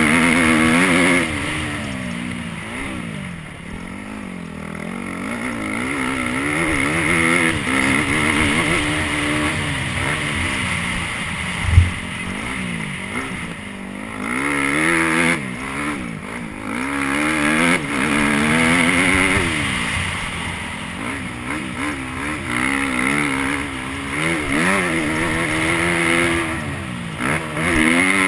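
Motocross dirt bike engine revving hard, its pitch climbing and dropping again and again as the throttle is worked around the track. A sharp thump stands out about twelve seconds in.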